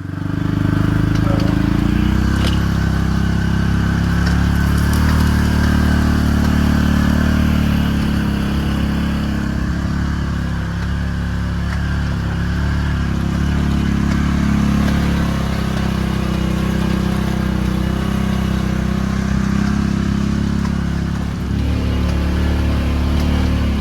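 Vehicle engine running steadily as it drives, towing a loaded trailer.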